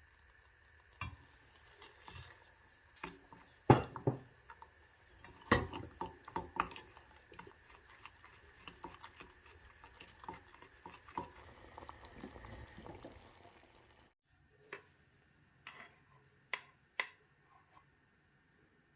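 Kitchen utensils and bowls being handled while baking: a run of irregular clinks and knocks, the sharpest about four seconds in. After a break near the end, a few lighter taps follow.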